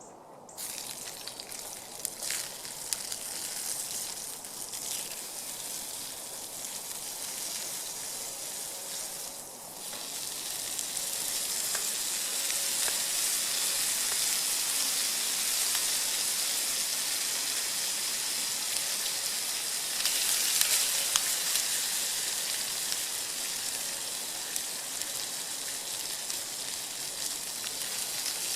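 Spam frying over a campfire, a steady sizzle with scattered small pops and crackles. It starts suddenly about half a second in and grows louder about ten seconds in.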